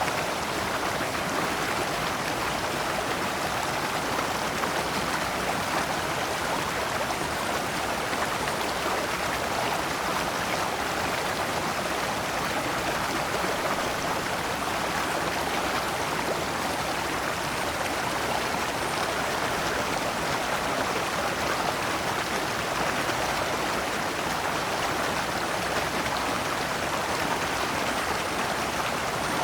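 Shallow rocky stream running steadily over stones in small cascades, a continuous rushing and splashing of water.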